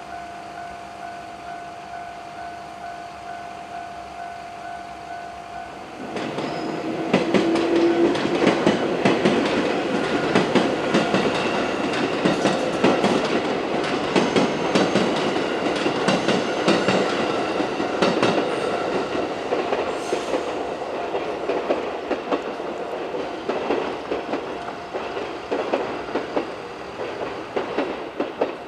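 Level-crossing warning bell ringing steadily; then, about six seconds in, a 221 series six-car electric train passes over the crossing. Its wheels clack rapidly over the rail joints for about twenty seconds while the bell keeps ringing underneath.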